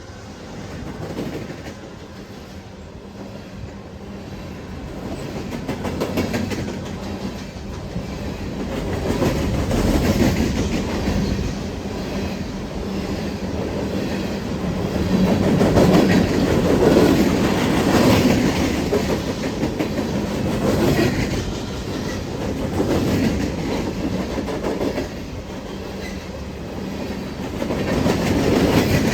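Empty coal train rolling past, its steel wheels clicking over the rail joints, growing louder over the first half and staying loud.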